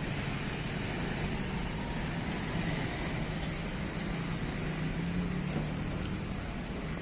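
Steady drone of a heavy diesel engine running, with a low, even hum.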